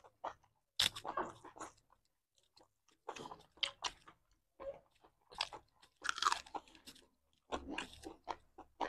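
Mouth sounds of people eating a meal of pork, rice and raw salad: chewing and biting in short, irregular crunchy bursts, with a brief lull about two seconds in.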